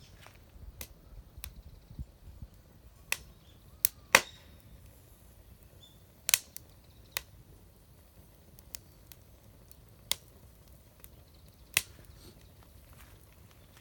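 Burning wood crackling in a fire pit, with sharp, irregular pops every second or so, the loudest about four seconds in.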